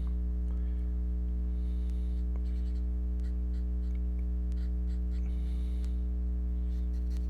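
Steady electrical mains hum, with faint scratching of a marker colouring on paper in a few short patches.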